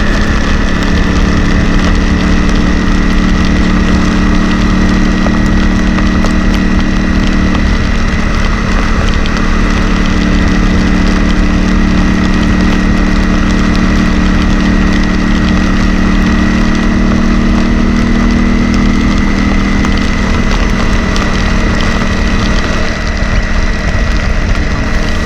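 Honda CRF250L Rally's 250 cc single-cylinder engine running steadily while riding, under a loud steady rush of wind and road noise. The engine's note eases off about 20 seconds in.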